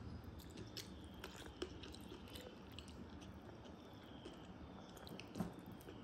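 Faint close-miked chewing and wet mouth sounds of someone eating water rice by hand, with scattered small clicks and a soft knock about five and a half seconds in.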